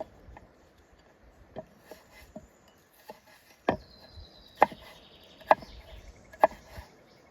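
Chopping with a blade: sharp, regular strokes about once a second, the loudest four in the second half, with a few lighter taps before them.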